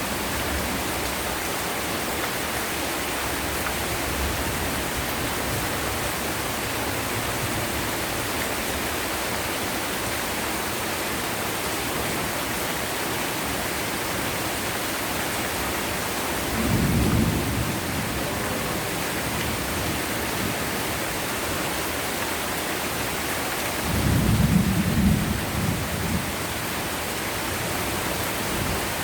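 Heavy rain falling in a steady hiss, with two low rumbles of thunder: a short one a little past halfway and a louder, longer one near the end.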